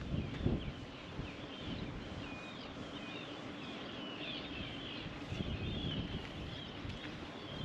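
Small birds chirping and twittering continuously in many short high calls, over a low outdoor rumble, with a few low thumps near the start and near the end.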